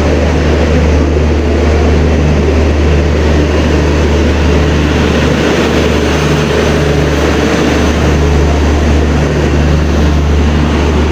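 An LHB passenger train rolling past along the platform: a loud, steady low rumble with a low hum that comes and goes. The diesel generator of the grilled rear power car runs as it passes, before the last car draws away.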